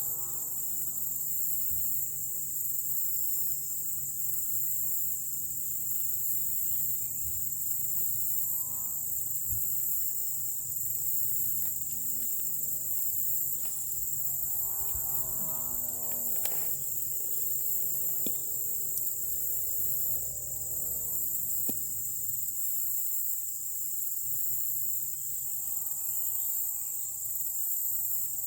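A steady, high-pitched chorus of insects chirring without a break. A few faint sharp clicks fall in the middle stretch, and faint distant pitched sounds come and go.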